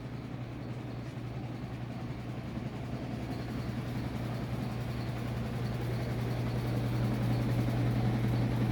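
A steady low engine hum, growing gradually louder.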